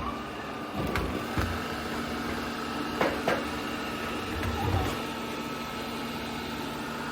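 ECOVACS DEEBOT N20 PRO PLUS robot vacuum running with a steady motor hum, with a few light knocks and bumps over the first five seconds.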